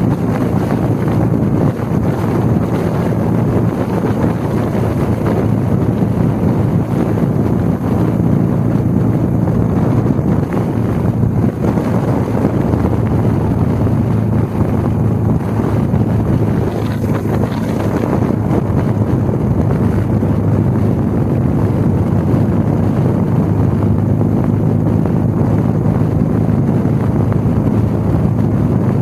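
Harley-Davidson motorcycle engine running at a steady riding speed, with heavy wind noise on the microphone.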